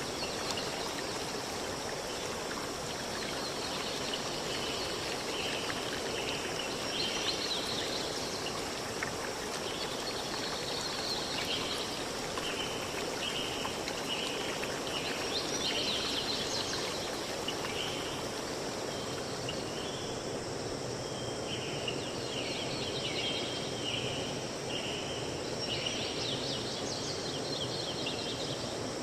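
Steady rushing of a forest river stream, with runs of short high chirps repeated a little more than once a second and scattered higher calls over it.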